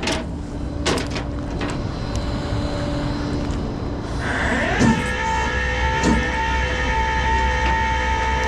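Tow truck engine running, with a few clicks and knocks. About four seconds in, a whine rises in pitch and then holds steady.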